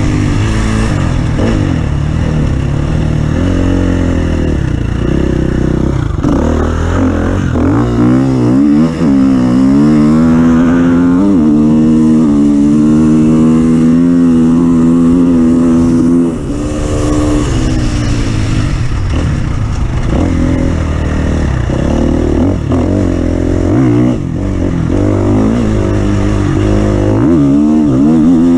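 Engine of an off-road racing vehicle running hard, with the revs rising and falling as it drives: the pitch climbs about eight seconds in, holds high for several seconds, then drops suddenly about sixteen seconds in and picks up again.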